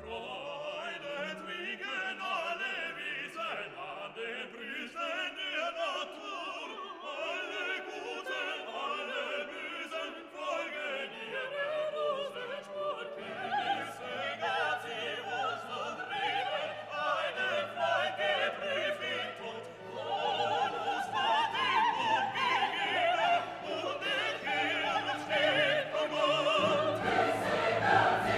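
Classical music: operatic singing with orchestra, swelling louder about two-thirds of the way in and again near the end as a low bass line enters.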